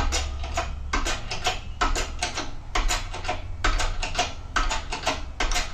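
Hand-pumped hydraulic shop press being jacked to push a bearing in with a socket: a quick, uneven run of clicks and knocks from the pumping.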